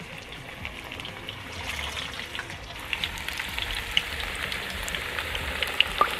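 Sweet potato slices frying in a pan of hot oil: a steady sizzle full of small crackles and pops, growing louder about two seconds in.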